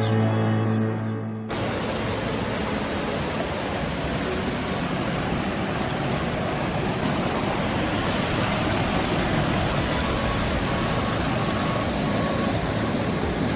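Steady, even rushing of a waterfall, the sound of falling water. It starts abruptly about a second and a half in, as background music cuts off.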